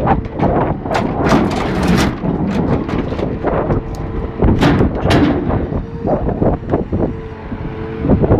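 Timber logs knocking and banging against each other and the wagon as a truck-mounted loader crane's grapple handles them, with the Scania 164C's V8 diesel running beneath. A steady whine comes in about six seconds in.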